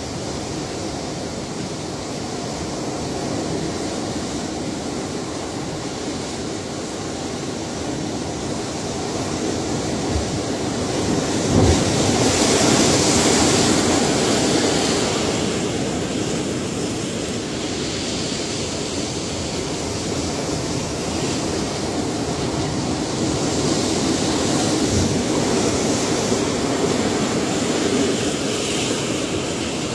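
Ocean surf: waves breaking and washing in a steady rush that swells and ebbs, with a larger wave breaking about twelve seconds in and another near the end.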